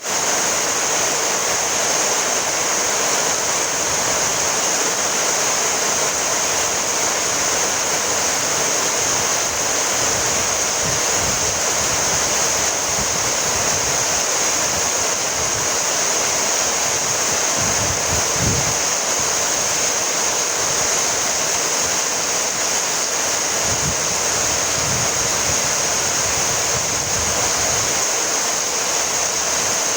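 Steady rainfall, a dense even hiss with no break, and a few soft low rumbles now and then.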